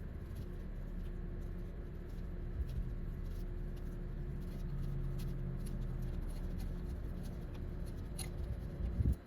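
Faint light metallic ticks and scraping as a 12 mm bolt is turned out by hand, over a steady low hum that stops abruptly near the end.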